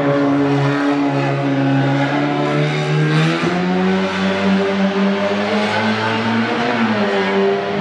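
Race car engine running hard at high revs, holding a steady pitch. Its revs step up about halfway through and drop back shortly before the end.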